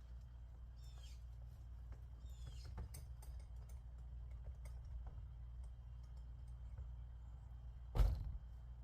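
One loud thump about eight seconds in, with a few small knocks before it. Short falling bird chirps come twice early on, over a steady low hum.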